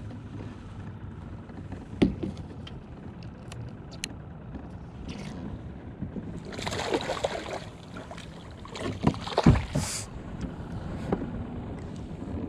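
Knocks and splashing on a plastic Hobie fishing kayak: a sharp knock about two seconds in, a spell of splashing water in the middle, and a heavy thump a couple of seconds later.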